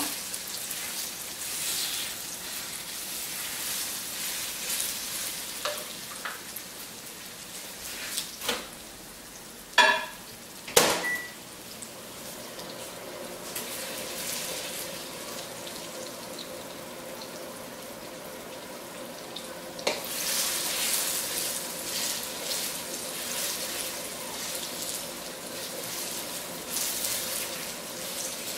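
Plantain quarters sizzling as they fry in a wok, stirred with a wooden spoon. A few sharp knocks about ten seconds in and another near twenty seconds, after which the sizzle grows louder.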